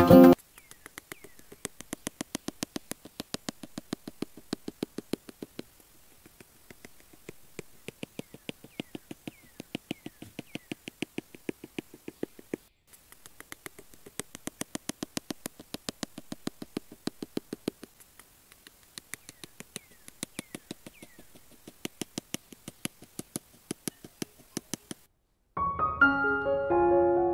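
Fast, even clicking, about seven clicks a second, in runs of several seconds with short breaks between; piano music starts near the end.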